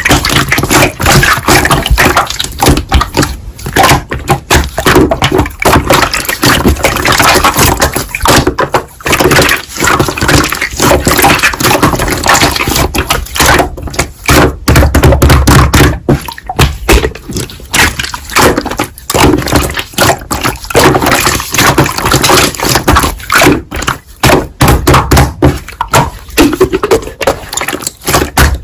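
Slime being squeezed, stretched and pressed by hand, making wet squishing sounds with many quick, sharp pops and crackles.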